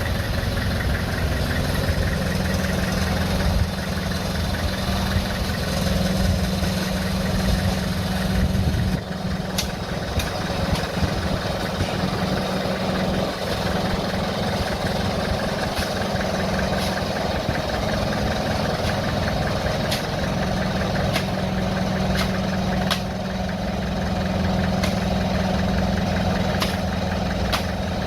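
Diesel engine of a heavy earthmoving machine running steadily, with a few sharp metallic clanks scattered through, and a brief drop in level about nine seconds in.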